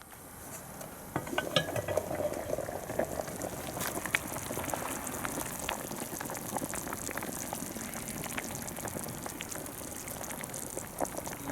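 Soup boiling in a cast-iron Dutch oven: a dense, crackling bubbling with scattered light clicks, fading in over the first second.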